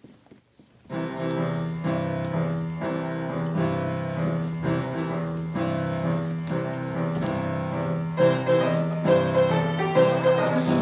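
A piano duet playing a 12-bar blues begins about a second in, after a brief hush. Repeated chord changes in the lower part keep a steady beat while a melody runs above.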